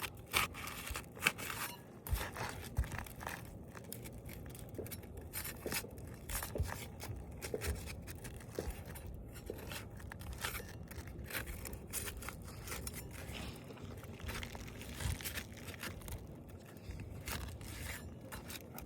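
Asphalt roof shingles being unsealed and pried up: irregular scraping, crunching and tearing as the brittle tabs are separated from the sealant strip.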